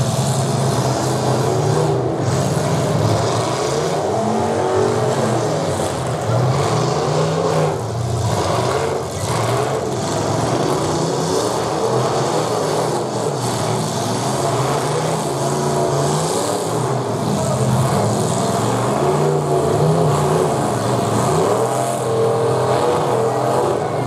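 Full-size demolition derby car engines running loud through open upright exhaust stacks, revving up and down again and again as a car spins its wheels in the dirt.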